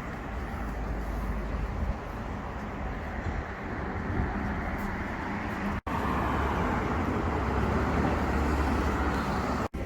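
Street traffic: road vehicles including buses running past with a steady low rumble and tyre noise. It breaks off sharply twice, and the part after the first break is louder.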